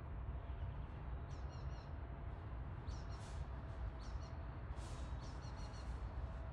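Short, high-pitched bird chirps in little clusters about every second, over a steady low rumble.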